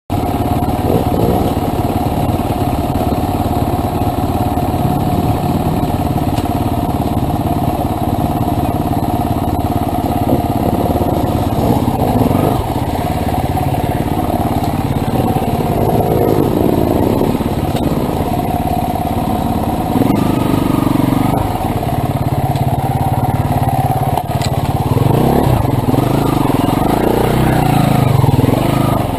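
Enduro motorcycle engine running as the bike is ridden over a rough wooded trail, the revs rising and falling repeatedly, most of all in the second half.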